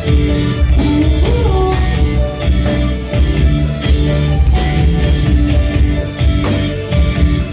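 Live band playing loud amplified music, with steady drum hits under sustained guitar and bass notes and a sliding note about a second in.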